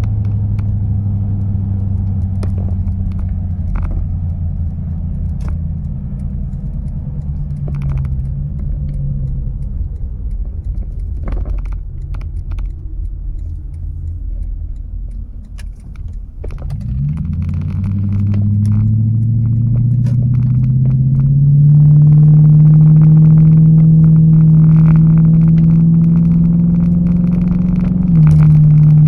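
Droning exhaust note of a 1996 Toyota Celsior's 4.0-litre V8 with a custom exhaust, heard inside the cabin. It holds a steady low drone, fades briefly about halfway, then climbs in pitch as the car accelerates and settles into a louder, steady drone.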